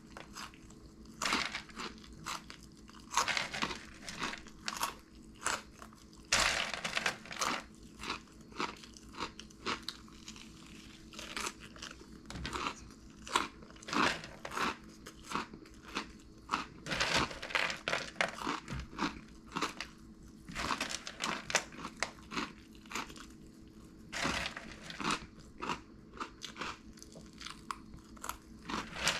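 Close-up crunching and chewing of crunchy corn-puff cheese snacks (Flamin' Hot BBQ Cheddar Cheetos), with irregular crackly crunches throughout.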